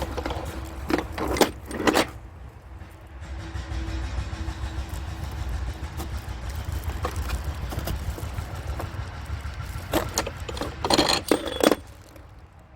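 Metal tools and engine parts clinking and clanking in two short clusters, one near the start and a longer one near the end, over a steady low rumble, during camshaft work on a Volvo truck engine.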